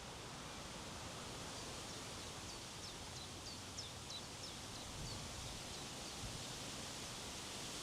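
Steady wind blowing over an open hilltop, with two low gust thumps in the second half. A small bird gives a quick series of short, high, falling chirps from about a second and a half in, lasting around three seconds.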